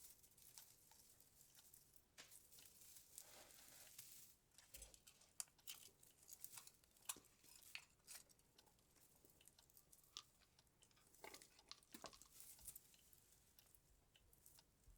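Faint rustling and scattered small clicks of a string-light garland being handled and draped on a Christmas tree.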